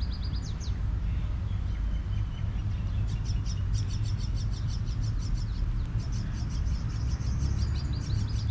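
Small birds chirping in rapid runs of short, high notes, briefly at the start and then almost without a break from about three seconds in, over a steady low rumble.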